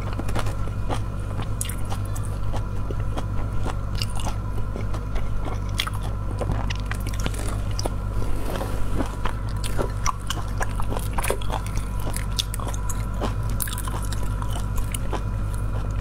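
Close-miked mouth sounds of a person biting and chewing prawn, with many small crackling clicks throughout. A steady low hum runs underneath.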